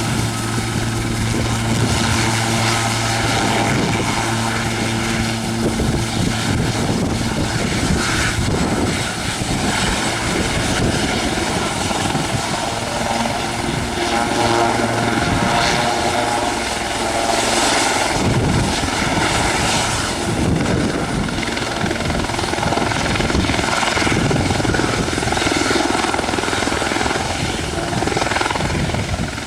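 A helicopter's turbine engine and rotor running close by. A steady low hum fades out about two-thirds of the way through while the rotor noise carries on.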